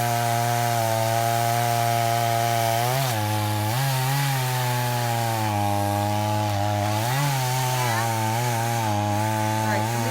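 Chainsaw running steadily while cutting wood, its pitch dipping briefly a few times (about 3, 4 and 7 seconds in) as the chain is loaded in the cut.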